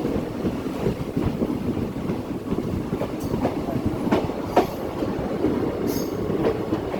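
DEMU passenger train running on the rails, wheels clattering with scattered knocks over the track. A brief high squeal comes about six seconds in.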